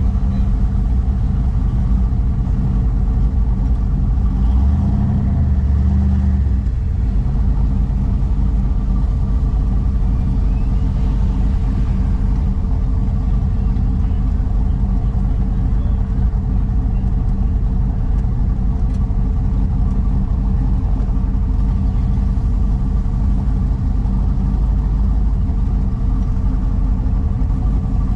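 LS V8 engine of a twin-turbo 1962 Chevy Nova wagon idling and creeping along in slow traffic, a steady low rumble. About four seconds in it swells briefly deeper for a couple of seconds, then settles back.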